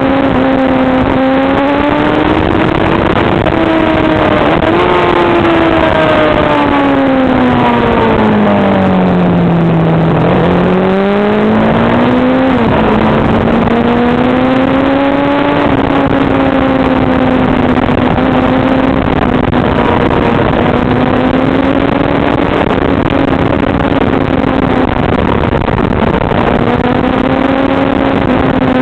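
Motorcycle engine running under way, heard from onboard with road and wind hiss beneath it. Its note holds fairly steady, sinks for a few seconds about a third of the way in as the throttle is eased, then climbs again with a short blip.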